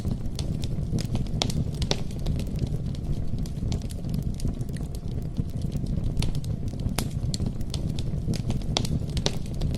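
Campfire burning with a steady low rumble and frequent sharp, irregular crackles and pops of the wood.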